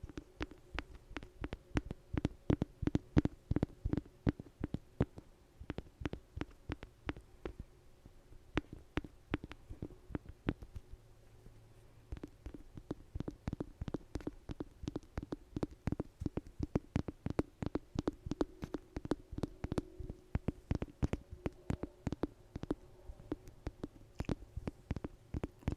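Rapid, irregular tapping close to the microphone, several taps a second over a low steady hum, easing off for a few seconds partway through.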